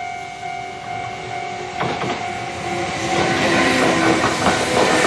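A railway level-crossing warning bell rings steadily as a Kintetsu 5800 series electric commuter train arrives. A heavy clank comes about two seconds in, and from about three seconds the train's wheels clatter over the rail joints, growing louder as it passes.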